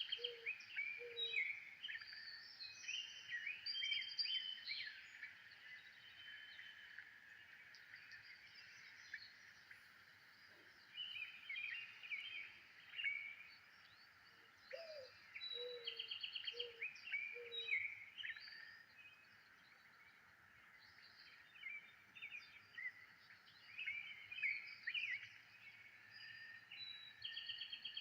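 Several wild birds chirping and trilling in a busy dawn-chorus-like mix. A lower call of four short notes comes at the start and again about fifteen seconds in.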